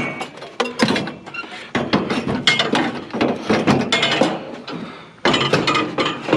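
Metal scrap clanking, knocking and rattling in a rapid, uneven string as it is handled and loaded onto a trailer.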